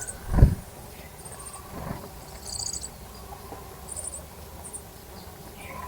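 Small birds giving short, high-pitched buzzy chirps a few times, spaced a second or so apart. A single low thump about half a second in is the loudest sound.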